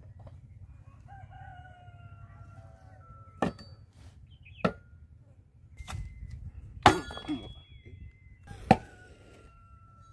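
A rooster crowing twice, each crow a long drawn-out call, the second starting near the end. Several sharp knocks come between the crows and are louder than them.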